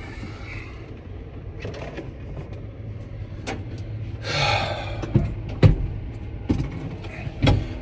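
Scattered knocks, clicks and a brief rustle as a person shifts around and settles into a crane cab seat, over a steady low hum. The loudest knocks fall in the second half.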